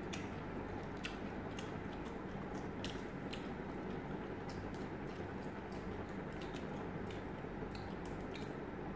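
Close-up chewing and wet mouth clicks of people eating grilled pork barbecue skewers, small irregular smacks scattered throughout, over a low steady hum.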